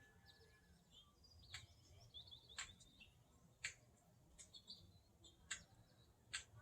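A small bird pecking at chrome: sharp taps roughly once a second, about five in all, with short high chirps and twitters between them.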